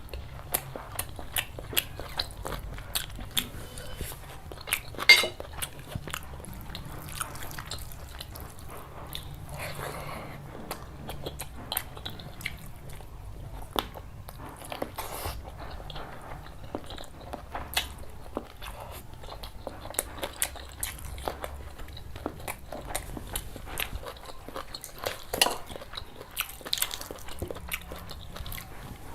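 Close-miked chewing and biting of a curry and rice meal: wet mouth sounds with many sharp crunching clicks, the loudest crack about five seconds in.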